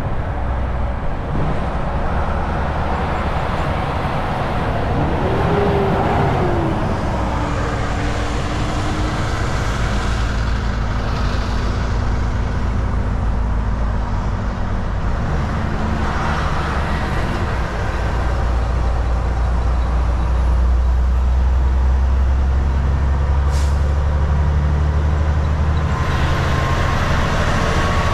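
Volvo VNL 760 semi truck at highway speed: the diesel engine runs steadily under a constant hiss of tyre and road noise. The low engine hum grows louder about two-thirds of the way through.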